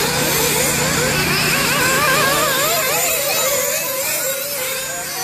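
Several nitro RC buggy engines racing together, their high-pitched whine rising and falling as they rev and lift off through the track.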